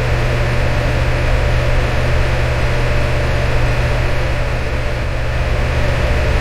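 Electric fan running steadily: an even rush of air over a strong low hum, with a fainter steady tone above it.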